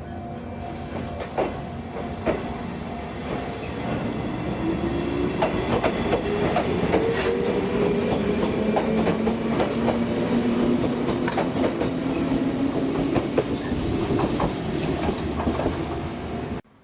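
Old JNR-type electric train running on the rails, with wheels clicking over rail joints and a motor whine that rises slightly in pitch as the sound grows louder over the first few seconds. The sound cuts off suddenly near the end.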